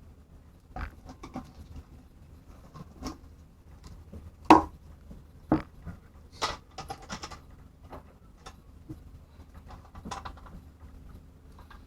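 Irregular knocks, clicks and steps as someone moves about, loudest about four and a half seconds in, over a faint steady hum.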